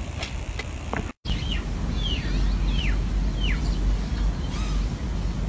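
A bird calling: four clear descending whistled notes, roughly one every 0.7 seconds, starting just after the sound cuts out for a moment about a second in. A steady low rumble runs underneath.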